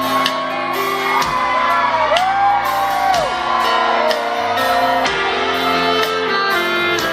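Live country band playing the instrumental close of the song, with sustained chords, a steady drum beat and long rising-and-falling glides about a second in.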